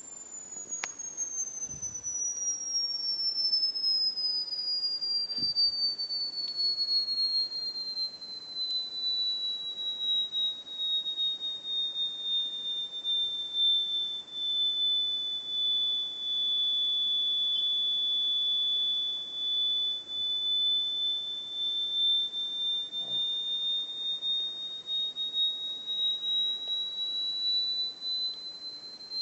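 A single piercing, high-pitched electronic sine tone that glides slowly downward for about the first half, holds level for several seconds, then creeps slowly back up near the end.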